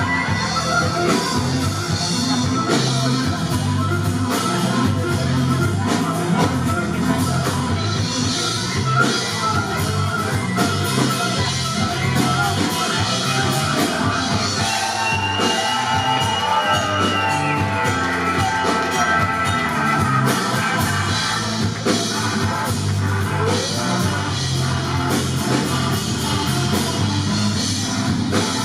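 Anatolian rock band playing live: a steady, repeating bass line under guitar and drums, a continuous full-band passage.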